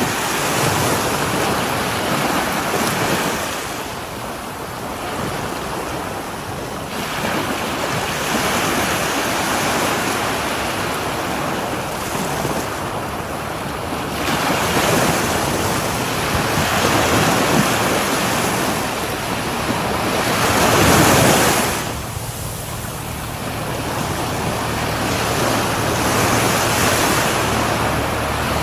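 Sea waves washing onto a shore: a continuous hiss of surf that swells and falls every few seconds, with the biggest surge about two-thirds of the way through.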